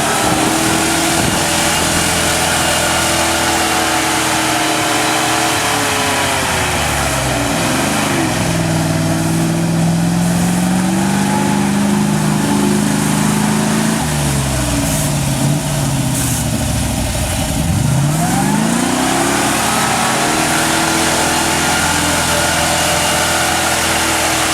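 GAZ-66 truck's V8 engine working hard under load at high revs. The revs drop and climb again twice, about a third of the way in and again past the middle, with a lower steady stretch between.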